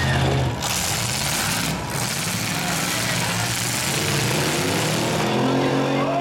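Demolition derby trucks' engines running hard under a dense rush of noise, with one engine revving up, its pitch rising near the end.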